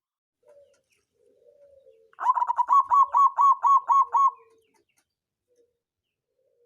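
Zebra dove (perkutut) song: a few soft low coos, then a loud run of about ten rapid, hooked notes, roughly five a second, lasting about two seconds, ending in a soft low coo.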